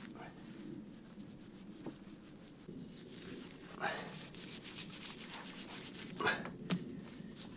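Bricklaying sounds: clay mortar being scraped and spread and bricks rubbed into place, with a dense stretch of rapid scraping in the middle and a few sharper knocks as bricks are set.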